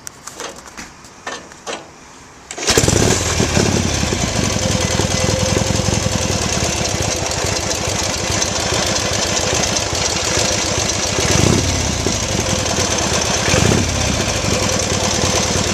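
1941 Indian Scout's 45-cubic-inch flathead V-twin, started warm without choke: a few clicks, then the engine catches about two and a half seconds in and runs steadily, with two brief rises in level near the end.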